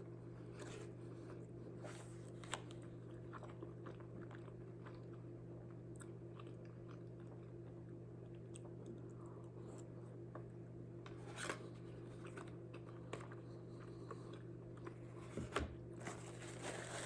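A person chewing food quietly, with a few small crunches and mouth clicks. A steady low hum runs underneath.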